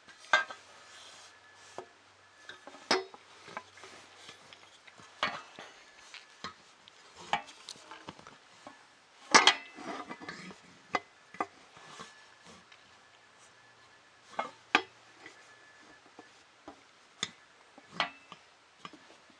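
Irregular clicks, taps and clinks of small hard plastic and metal parts being handled and fitted together on a work surface, with a louder clatter about nine seconds in.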